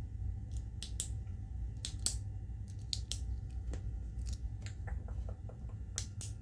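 Close-miked ASMR clicks and ticks: sharp, dry and irregularly spaced, coming one to several a second, with a quick cluster of smaller ticks about five seconds in.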